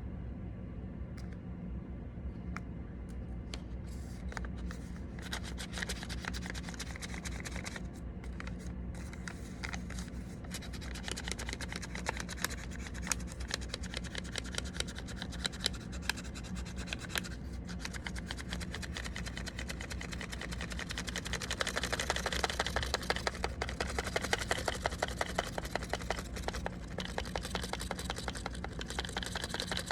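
Sheet paper rustling and crinkling as it is handled, with scattered small crackles that thicken into a fast run of rapid ticks in the last third, over a steady low hum.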